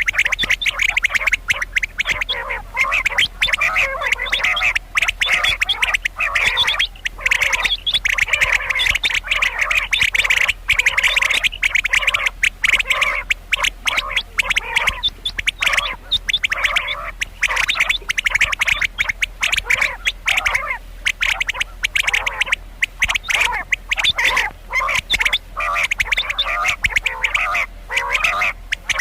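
Common quail calling: a dense, nearly unbroken run of rapid, short, raspy notes, given as the female quail's call that hunters use to lure birds.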